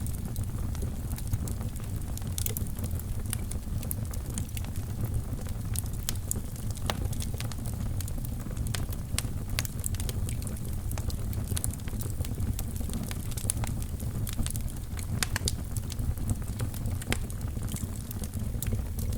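Fire burning in a fireplace, crackling with many sharp, irregular pops and snaps over a steady low rumble.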